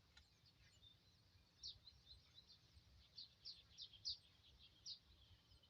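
A small bird chirping faintly: quick runs of short, high, falling notes, one about a second and a half in and another from about three seconds in.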